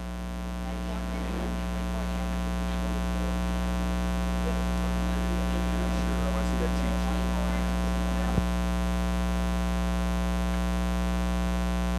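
Steady electrical mains hum, with one sharp click about eight seconds in.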